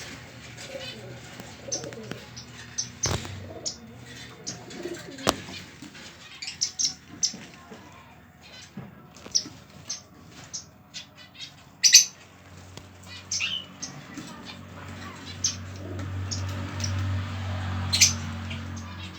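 Pet finches chirping in short, high, scattered calls, with wings fluttering. A low steady hum joins in the second half.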